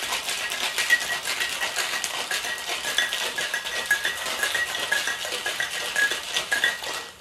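Ice cubes rattling hard and fast inside a cocktail shaker as it is shaken to chill and mix the drink. The shaking stops abruptly near the end.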